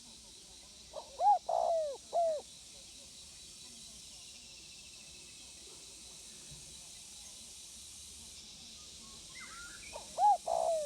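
Spotted dove cooing: a short phrase of three or four low coos, each bending down in pitch, about a second in, and the same phrase starting again near the end, over a steady faint high hiss.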